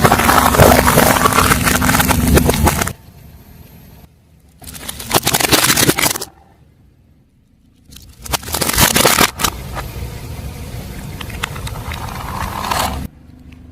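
Crunching and crackling of objects being crushed under a car tyre, in several short clips cut together with brief quiet gaps between them.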